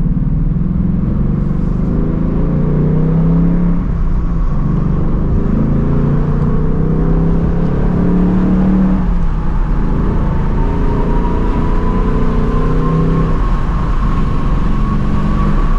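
2024 Ford Mustang GT's 5.0-litre V8 through its stock active exhaust, pulling up through the gears: the engine note rises and drops back with a gear change three times, then holds steadier near the end.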